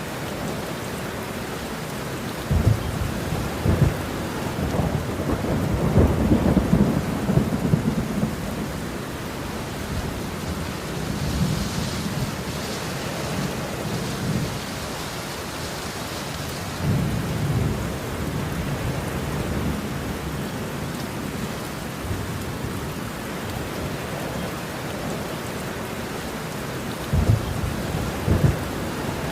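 Steady rain with rolls of thunder rumbling several times: a long roll a few seconds in, quieter ones in the middle, and a short double rumble near the end.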